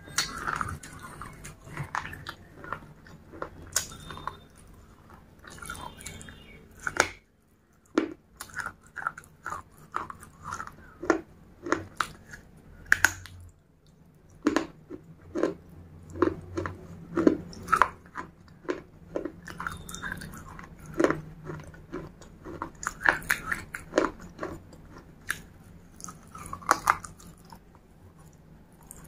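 Crunching and chewing of pieces of baked terracotta clay pot with red paste, picked up by a microphone held right at the mouth: irregular sharp crunches and clicks, several a second, with a couple of short pauses.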